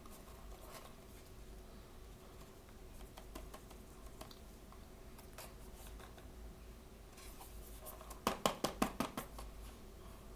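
Hands handling blind-bag toy packaging: faint rustles and scratches, then a quick run of about eight sharp crinkles lasting about a second near the end.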